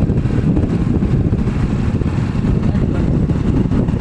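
Steady low rumble of a moving vehicle, with no clear rises or breaks.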